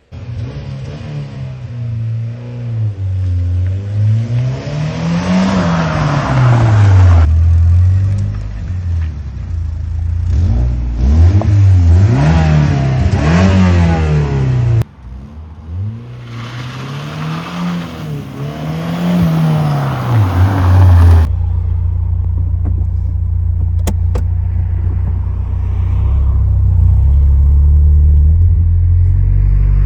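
Toyota Celica GT-Four ST185's turbocharged 3S-GTE four-cylinder engine revving up and dropping back again and again, then running at a steady low rumble for the last third.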